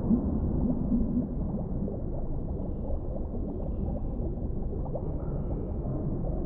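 Underwater ambience: a steady low, muffled rumble with soft bubbling and gurgling, a little louder in the first second.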